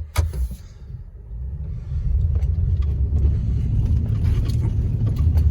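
Four-wheel-drive pickup truck's engine working under load as the truck tries to drive through deep snow in which it is stuck. A short knock comes right at the start; about two seconds in the engine picks up to a steady low rumble.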